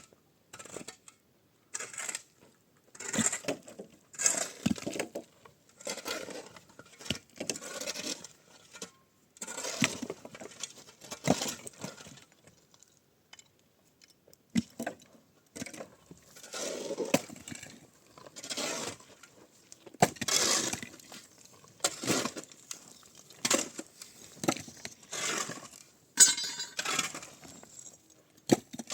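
Irregular knocks, clinks and scrapes in short bursts with gaps between them, about one or two a second, the sharpest clatter about 26 seconds in.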